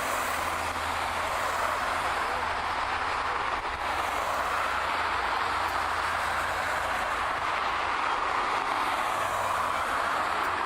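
Airbus A321-131 jet engines, IAE V2500 turbofans, running at takeoff thrust, heard as a steady roar with no distinct whine and a low rumble beneath.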